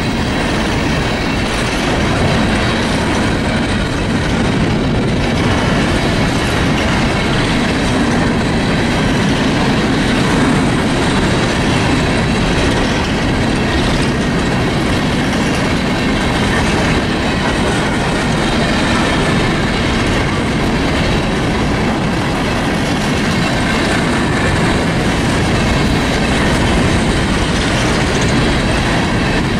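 Freight train cars rolling steadily past, a continuous rumble of steel wheels on rail.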